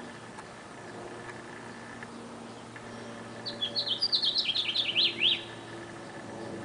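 A songbird sings one fast phrase of high, rapidly sweeping chirps lasting about two seconds, starting about three and a half seconds in, over a faint steady background hum.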